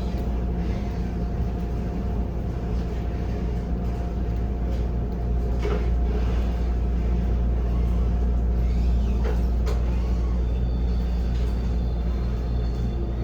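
EMU800 electric multiple unit heard from inside the passenger car while running: a steady low rumble with a thin steady whine, and a few sharp clicks partway through.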